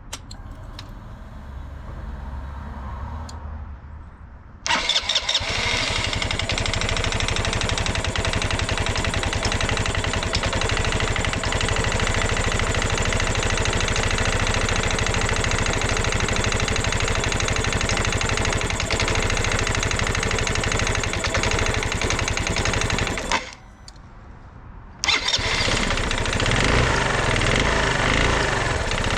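Genuine Blur 220i scooter's single-cylinder four-stroke engine starts and runs steadily, cuts off suddenly, then starts and runs again about a second and a half later. It is running with piston slap from a worn piston and rings.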